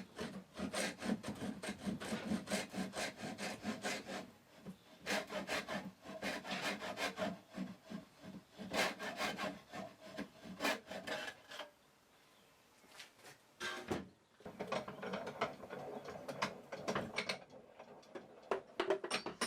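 Hand saw cutting through a wooden dowel in quick back-and-forth strokes. The sawing stops a little past halfway, then starts again on the second short piece.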